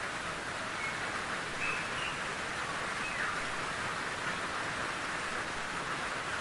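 Steady rain falling in a forest, an even hiss of drops, with a few faint bird chirps over it.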